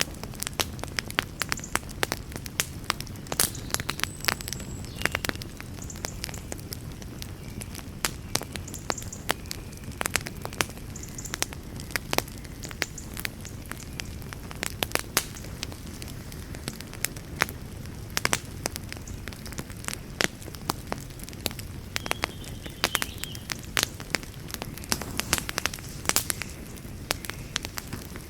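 Wood fire burning with frequent sharp crackles and pops, several a second, over a steady low rumble of the flames and an occasional brief hiss.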